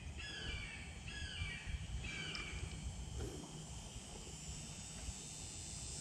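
A bird calling, a short downward-slurred call repeated about three times in the first couple of seconds, then fading out, over a faint low rumble.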